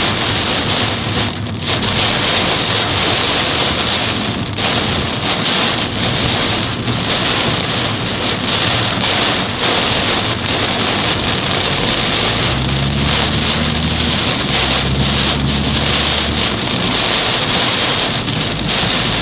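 Torrential downpour beating on a car driving through it: a loud, dense, steady hiss of heavy rain. A low engine hum comes up for a few seconds past the middle.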